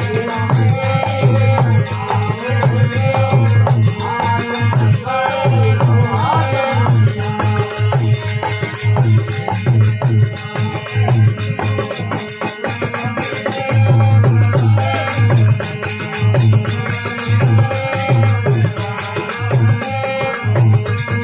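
Rajasthani folk devotional music: a bhajan with a steady hand-drum rhythm, rattling percussion and a melody line.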